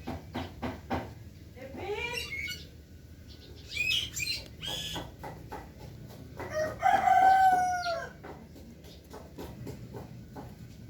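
A rooster crowing once, loudly, about six and a half seconds in, with shorter bird calls before it and a few sharp clicks at the start.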